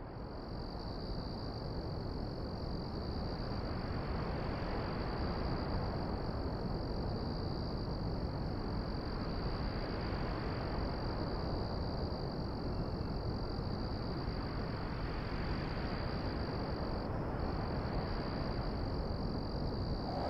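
Steady high-pitched insect drone, one unbroken tone that drops out for a moment near the end, over a soft even hiss of open-country ambience.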